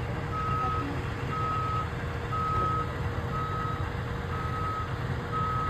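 Fire truck's reversing alarm beeping in even half-second tones about once a second, over the low rumble of its idling diesel engine.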